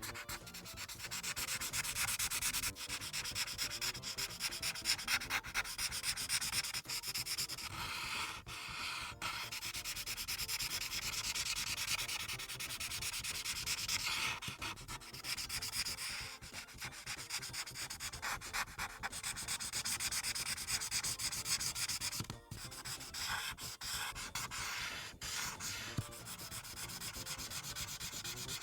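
Ohuhu Kaala series marker tip scratching across paper in quick back-and-forth colouring strokes, broken by a few short pauses as the marker lifts.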